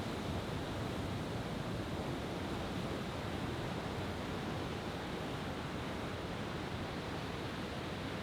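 Steady wash of ocean surf on a beach, an even noise with no distinct events, heard in a lull between firework reports.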